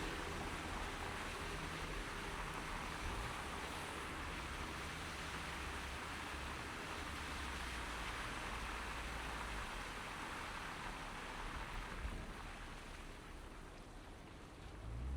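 A car driving on a wet, snowy city street: a steady hiss of tyres on slush with a low rumble of the road and engine, easing a little near the end.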